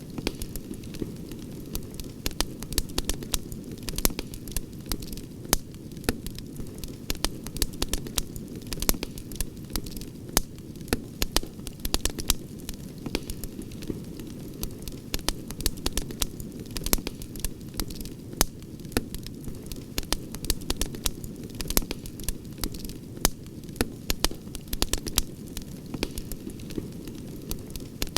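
Wood campfire crackling: frequent sharp pops and snaps at irregular intervals over a steady low rumble of the burning fire.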